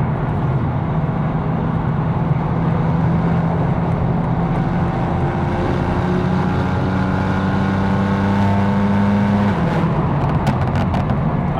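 750 hp BMW M4 engine and exhaust droning under a steady light load, the revs climbing slowly from about halfway, then dropping suddenly near the end as the car shifts up or the throttle is lifted.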